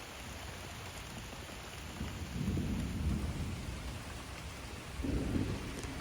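Steady rain falling, with thunder rumbling low twice: a longer roll about two seconds in and a shorter one near the end.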